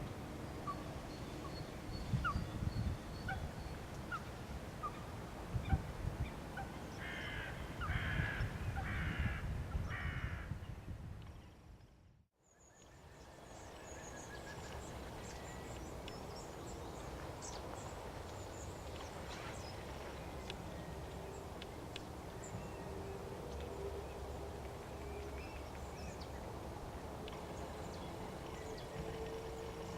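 Wild birds calling in open outdoor ambience. About a third of the way in comes a run of four harsh, caw-like calls. After a brief fade-out and back in, a steady background follows with scattered faint chirps.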